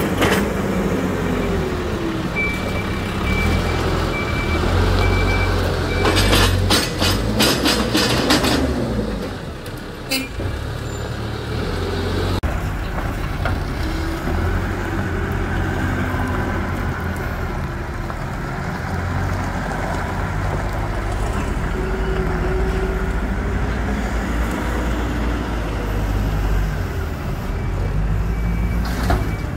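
Hidromek 102S backhoe loader's diesel engine running and working under hydraulic load, its pitch rising and falling. A rapid run of metal clanks comes about six seconds in, and a single knock follows a couple of seconds later. A faint steady high whine is heard for a few seconds near the start.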